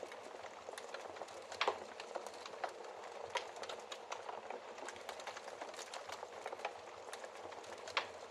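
Wood fire crackling in a fireplace: a steady soft hiss with irregular small crackles, and two louder pops, one about a second and a half in and one near the end.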